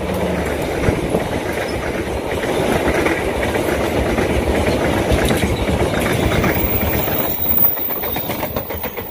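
Passenger coaches of a fast Indonesian train passing close by: a steady rush of steel wheels on the rails with rapid clickety-clack over the rail joints. It is very fast.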